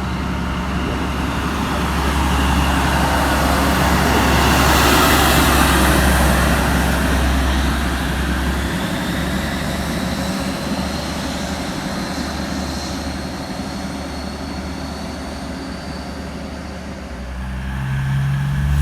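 Class 43 HST diesel power car running under power as it leaves the station, loudest about five seconds in and then easing as it draws away, with a thin whine rising slightly in pitch in the second half. Another engine sound builds near the end.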